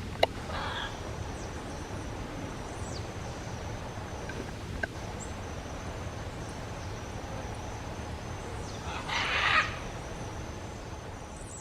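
Forest background with a faint, steady high whine and a few faint bird chirps; a sharp click comes just after the start, and brief rustling bursts follow it and come again about nine seconds in.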